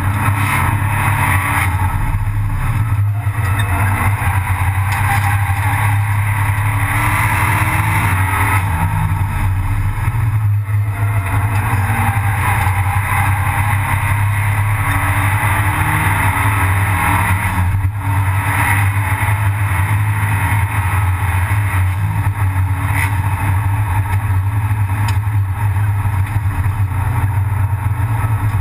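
Abarth 500 Assetto Corse race car's turbocharged 1.4-litre four-cylinder engine running as the car drives on track, heard loud from inside the stripped cabin, with the sound dipping briefly three times.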